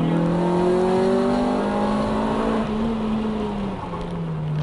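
Honda Civic's engine under power on the circuit, its note rising steadily for a couple of seconds, then easing off and fading about four seconds in.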